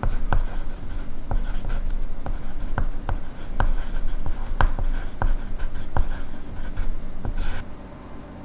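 Pencil writing on paper: scratchy strokes with sharp taps of the pencil tip against the page, about two a second, ending with a short scrape near the end.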